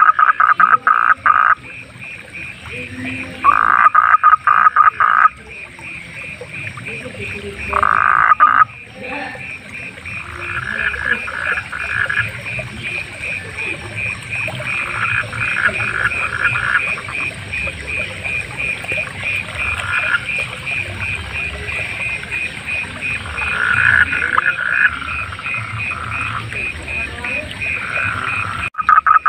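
A chorus of frogs calling at night. One steady, rapid pulsed trill runs throughout. Over it come loud bouts of fast pulsed croaks, three in the first nine seconds, then fainter, shorter bouts every few seconds. The sound drops out abruptly just before the end and returns loud.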